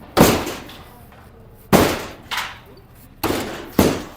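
Demolition crashes: five sharp, loud impacts at uneven gaps, each ringing off over about half a second, as structures and debris are smashed.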